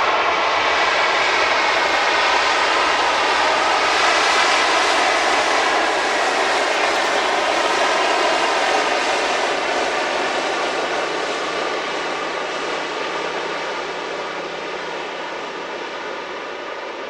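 Jet airliner's engines during a landing pass, a loud steady rush with slowly sweeping bands that begins to fade about ten seconds in as the aircraft moves away.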